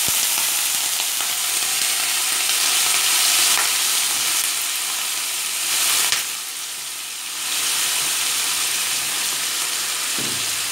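Cubed raw banana sizzling in hot oil in a stainless steel pan over a tempering of mustard seeds, urad dal and curry leaves, while the pieces are mixed by hand: a steady hiss.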